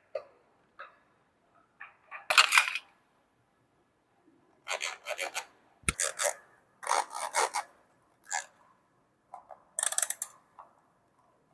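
Plastic toy pieces and packaging handled during an unboxing, in short bursts of rustling, rubbing and clicking, with one sharp knock about six seconds in.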